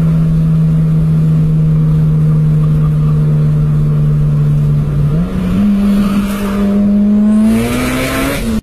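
Honda Type R car engine heard from inside the cabin, running hard at high revs at speed, stepping up in pitch about five seconds in and climbing again near the end before cutting off suddenly.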